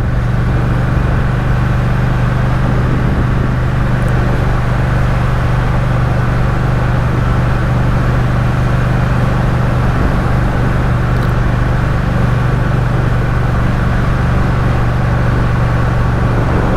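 Triumph Speed Twin's parallel-twin engine running at a steady pace on a climbing road, with wind and road noise over the microphone.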